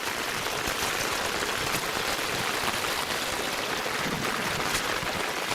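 Rainwater runoff from heavy rain flowing steadily through a flooded yard: an even noise of running water with no change.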